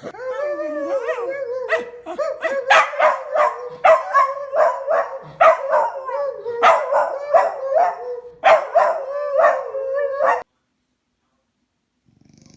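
A dog barking and yipping in quick succession, about three sharp barks a second, over a steady held tone. It cuts off abruptly about ten seconds in.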